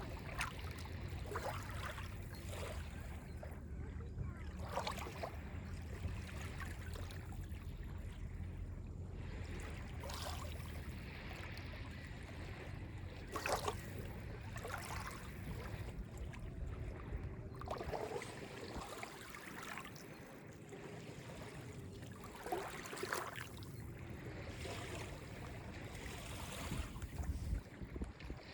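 Small, calm lake waves lapping and washing onto a beach every second or few, over a low steady rumble.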